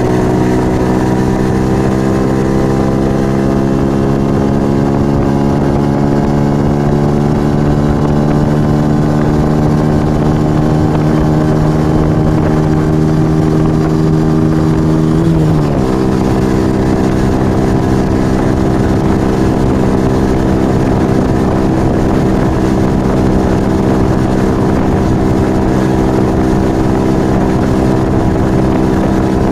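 Yamaha XV125 Virago's small V-twin engine through a Turbo Kit aftermarket exhaust, pulling in gear with its note slowly rising for about fifteen seconds. About halfway through there is a quick gear change, then the engine runs at a steady cruise. Wind rumbles underneath.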